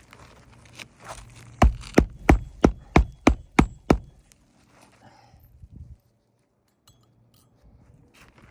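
Hammer striking a roofing nail in quick succession, about eight blows at roughly three a second, then stopping about four seconds in.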